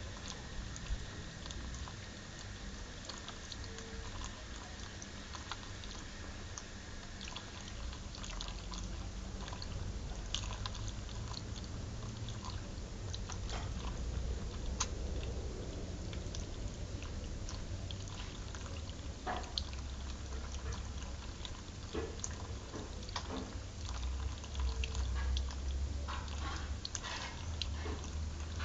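Shower water pouring and dripping on a bathing parrot, a steady patter broken by many short splashes and ticks.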